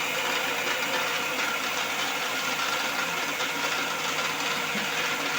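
Electric kitchen mixer grinder running steadily at full speed, grinding fried onions, cashews, curd, cream and water into a wet paste.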